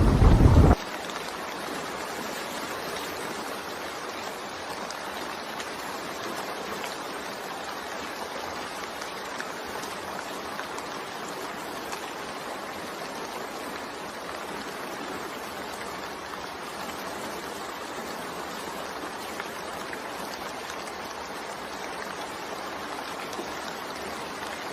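Steady rain: an even hiss of falling drops. A louder, rumbling storm sound cuts off abruptly under a second in.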